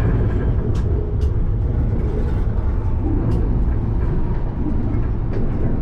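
Alstom Citadis tram running along the track, heard from the driver's cab: a steady low rumble with a few short, sharp clicks.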